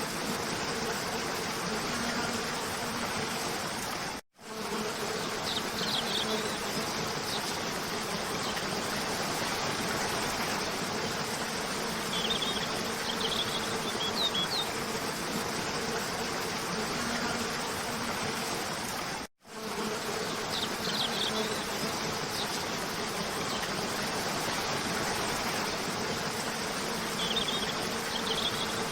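Steady rush of a cascading waterfall with short, high bird chirps every few seconds. The sound cuts out for a split second twice, about four seconds in and again about nineteen seconds in, where the recording loops.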